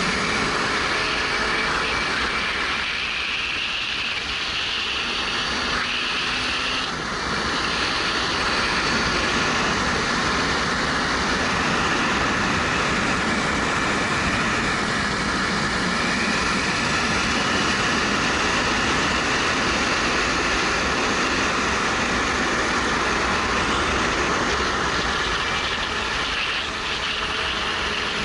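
Steady rush of wind on a helmet-mounted action camera's microphone while riding, with a 2013 Suzuki GW250's parallel-twin engine running underneath at a steady pace.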